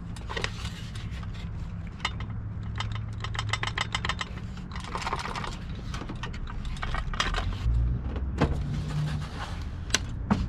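Small metal pieces clinking and rattling in quick irregular runs, over a low steady hum.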